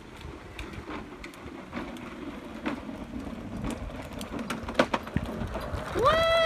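A child's ride-on toy motorcycle rolling over the ground: a crackling, rumbling wheel noise with scattered clicks that grows louder. Near the end a child lets out a long, loud, high call.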